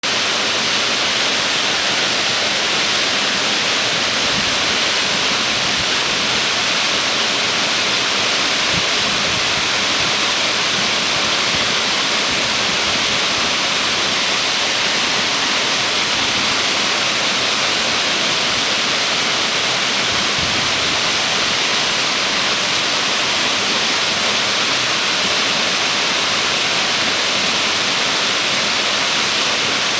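Waterfall rushing: a steady, unbroken wash of water noise.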